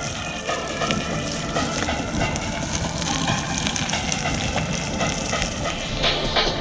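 Small motorcycle on the move on wet roads: the engine running under steady rushing wind and tyre noise.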